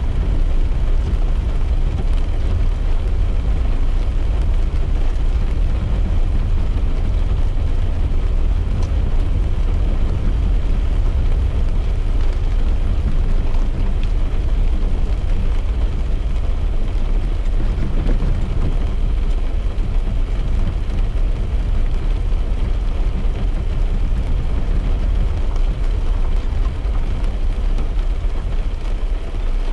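Steady low rumble of a car driving, heard from inside the cabin, with a light hiss of rain over it.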